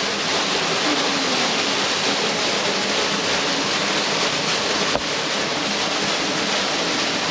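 Steady rush of moving water, an even continuous noise with no separate splashes, broken only by a brief click about five seconds in.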